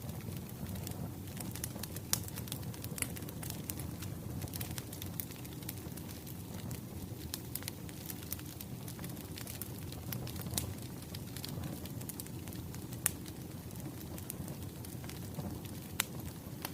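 Firewood burning, with frequent irregular sharp pops and snaps over a steady low rumble.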